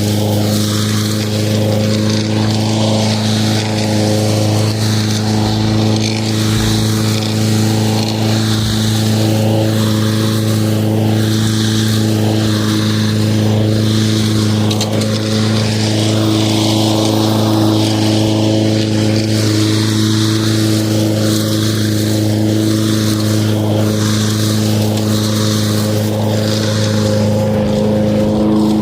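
Lawn mower running steadily at a constant speed: an even, unchanging hum with a shifting rush of noise above it.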